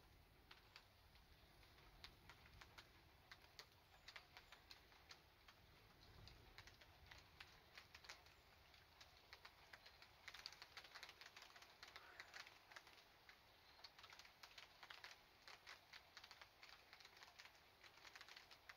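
Faint, irregular ticking of scattered raindrops falling on nearby surfaces during a thunderstorm, growing denser about halfway through.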